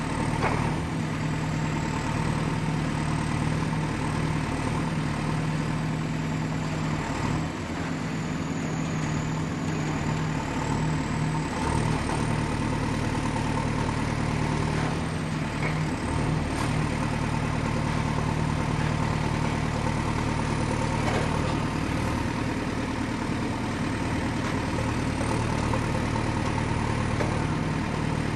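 Excavator's diesel engine running steadily at low revs, with a faint high-pitched whine that wavers slowly in pitch.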